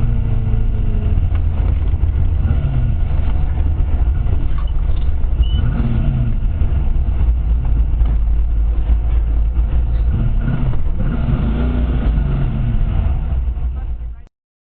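Leyland P76 race car's engine running, its revs rising and falling now and then. The sound cuts off abruptly near the end.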